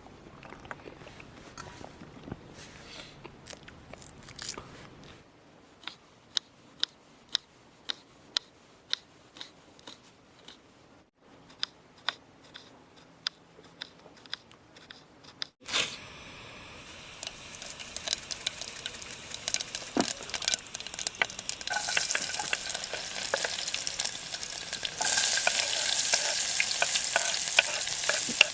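A run of sharp clicks and knocks, then, about halfway through, a sudden start of hissing and sizzling from a pan on a camp stove. The sizzling builds and is loudest near the end.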